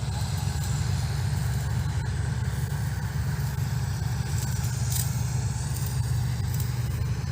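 Combine harvester running steadily while harvesting wheat, a low, even engine drone with no change in pitch.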